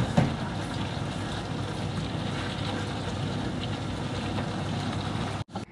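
Stir-fried eggplant and vegetables sizzling in a frying pan while being stirred with a spatula, a steady frying noise with a few light scrapes and clicks. It cuts off suddenly near the end.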